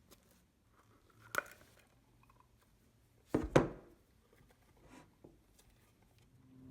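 Hands playing with slime: a few sticky clicks and pops, the loudest a double pop about halfway through.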